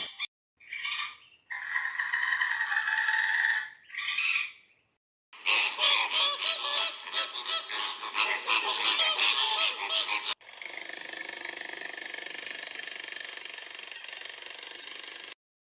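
Geese honking: a few short separate calls, then a flock honking together in a dense overlapping stretch, then a quieter, steadier stretch of flock calling.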